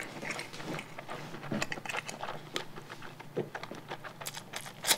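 Close-miked chewing of a mouthful of ramen noodles: irregular small clicks and smacks of the mouth, with a sharper click near the end.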